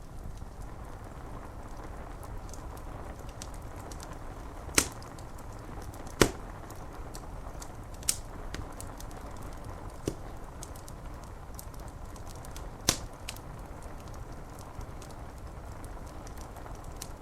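Wood fire crackling, with about five sharp pops standing out over a steady hiss of rain on window glass.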